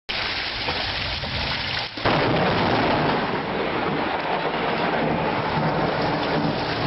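Heavy rain, then about two seconds in a sudden loud thunderclap from a close lightning strike, with the thunder and rain continuing loudly after it until the sound cuts off.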